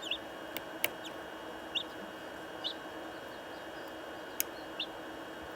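Newly hatched chicks peeping: about five short, high single peeps spaced a second or so apart, with a few sharp clicks. A steady hiss runs underneath.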